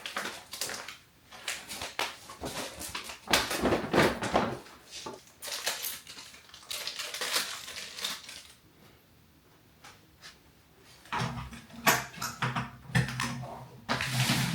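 Handling noises: rustling, clicks and clattering knocks of an over-the-door hat organizer being unpacked and fitted to a closet door, in a small room.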